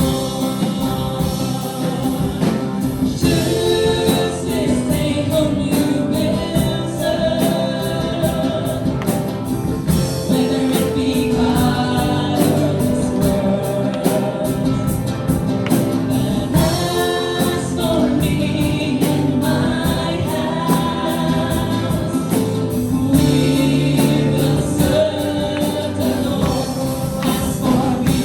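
Gospel worship song: several voices singing together over instrumental backing with a steady beat.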